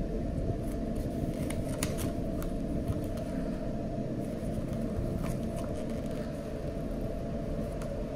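Paper hang tags rustling and flicking as fingers leaf through their folded pages, in short clusters of light ticks, over a steady low rumble.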